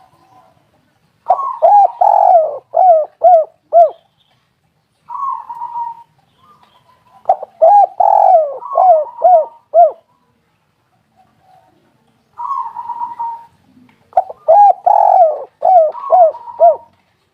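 Spotted dove (tekukur) cooing: three phrases, each a quick run of about five or six falling coos, separated by pauses, with a short lower note leading into the second and third.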